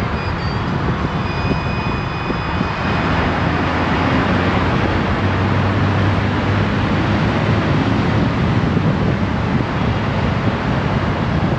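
Honda Gold Wing DCT motorcycle under way at speed: steady wind and road noise over the engine's low hum.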